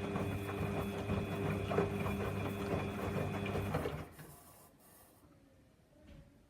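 Samsung washing machine running with a steady low hum and a clattering rattle, cutting off abruptly about four seconds in and leaving only a faint fading tone and a small click.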